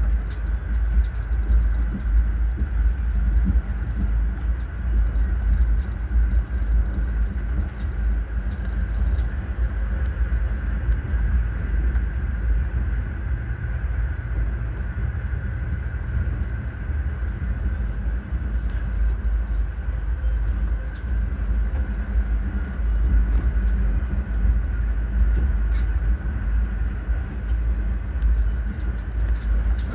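Passenger train running along the track: a steady low rumble with a thin, steady high hum above it and faint scattered ticks.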